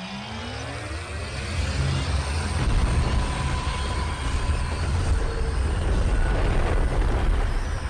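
Deep, continuous rumbling roar from a film soundtrack, heaviest in the low end and growing louder about two and a half seconds in.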